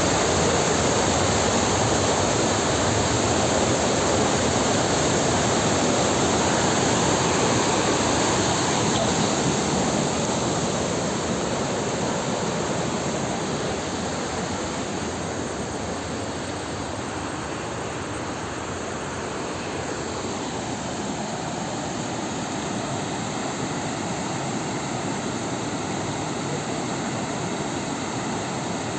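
Steady rushing of flowing floodwater, a continuous even roar that eases off a little about ten seconds in.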